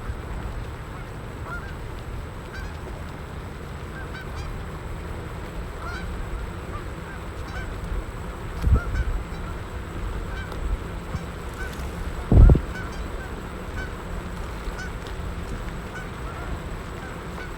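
Geese honking, many short calls scattered throughout, over a steady low rumble, with two short low thumps about nine and twelve seconds in.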